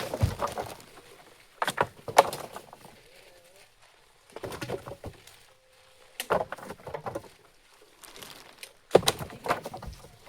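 Acacia logs knocking and clattering against one another as they are loaded onto a truck, a short burst of wooden knocks about every two seconds.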